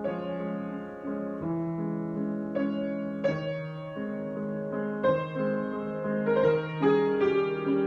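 Solo piano improvisation: slow chords and melody notes struck about every second, each left ringing into the next.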